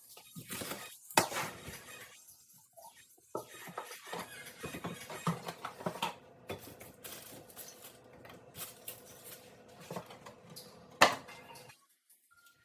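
Clatter of jars and containers being moved and set down on pantry shelves: irregular knocks and clinks, with a sharp knock about a second in and a louder one near the end, stopping abruptly just after.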